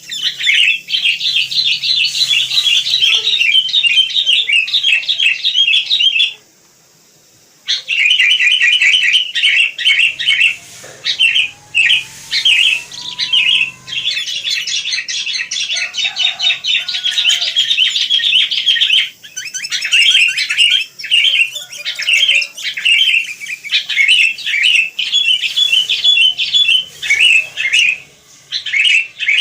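Wild sooty-headed bulbuls (kutilang) chattering busily: a dense, unbroken stream of quick, high chirps, with one pause of about a second some six seconds in.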